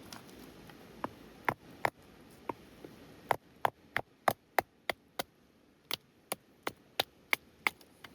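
Firewood being chopped: a run of sharp wooden strikes, about three a second, with a couple of short pauses between runs.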